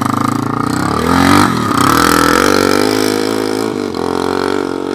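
Single-cylinder four-stroke dirt bike engine revving hard under load as it climbs a steep hill. The pitch dips and climbs again about a second in, then holds high.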